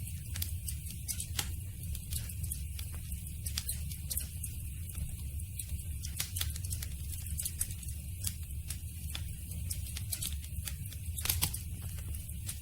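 Campfire crackling: irregular sharp pops and snaps over a steady low rumble, with a slightly louder burst of pops near the end.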